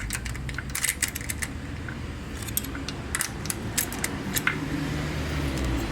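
Small metal hand tools and bolt hardware clinking and clicking in quick irregular ticks while a tight intake manifold bolt is worked loose, over a low steady hum.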